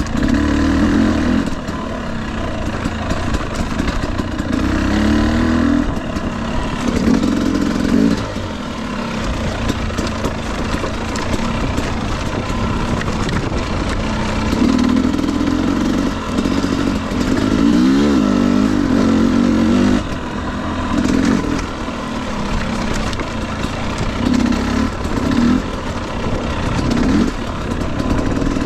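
A 2021 Husqvarna TE250i's single-cylinder two-stroke engine pulling in short bursts, the revs rising and falling as the throttle is opened and shut again and again, over a rattling clatter from the bike on rough trail.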